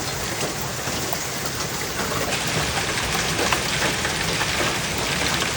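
Hailstorm: large ice hailstones pelting down with rain, a dense steady hiss studded with many sharp clicks of individual stones striking.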